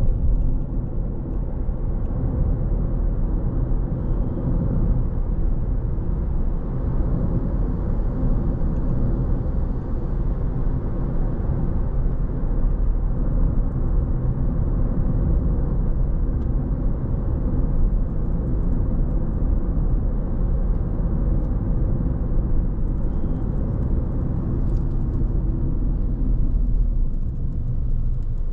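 Car driving at a steady speed: a constant low rumble of tyres on the road and the running engine.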